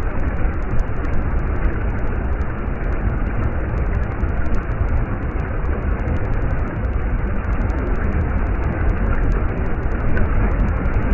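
Stream water running in a steady, unbroken rush, heaviest in the low end.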